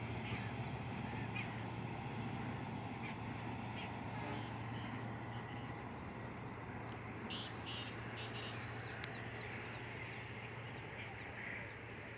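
Distant diesel train running, heard as a low steady drone that slowly fades. A few short bird calls come about seven to eight seconds in.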